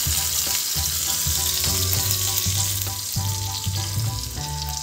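Chopped onion and diced potato sizzling in hot oil in a miniature pan as they are stirred, a steady high crackling hiss.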